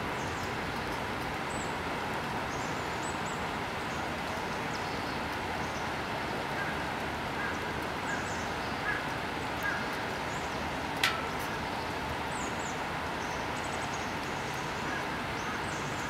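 Steady outdoor background hiss with small birds chirping here and there in short high calls, and a single sharp click about two-thirds of the way through.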